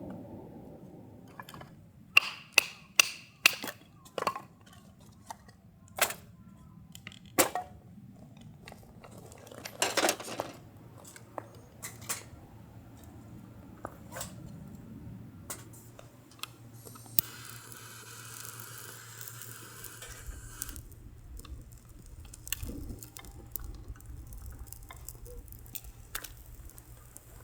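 Sharp clinks and knocks of dishes and utensils being handled, a dozen or so in quick succession in the first half. Then a steady hiss runs for about three seconds.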